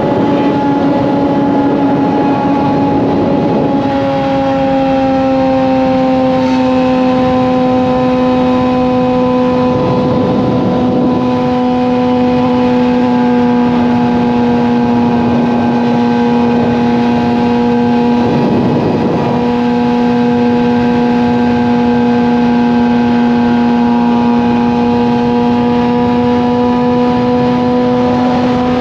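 Suzuki GSX-R750 inline-four with an M4 slip-on exhaust cruising at steady highway revs: a steady drone whose pitch eases down slightly about four seconds in and then holds. A few brief whooshes of wind or passing traffic rise and fade.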